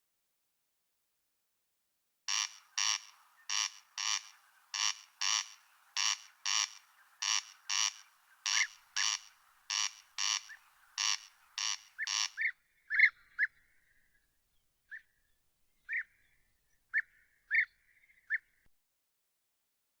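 An animal giving short rasping calls in pairs, about nine pairs at roughly one pair every 1.2 seconds, starting about two seconds in; after about twelve seconds they give way to a few short single chirps spaced about a second apart.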